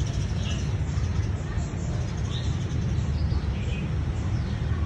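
A few short, high bird chirps, spaced a second or more apart, over a steady low rumble.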